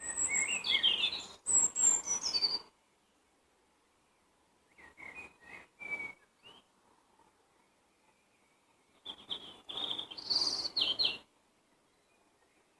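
Wild songbird singing three short phrases of quick, high, rapidly changing notes: a loud phrase at the start, a quieter one in the middle and another loud one near the end, with a near-silent background between them.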